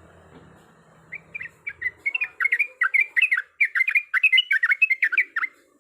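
Yellow-vented bulbul (trucuk) singing a fast, continuous run of short chattering notes. It starts about a second in, grows louder, and stops shortly before the end.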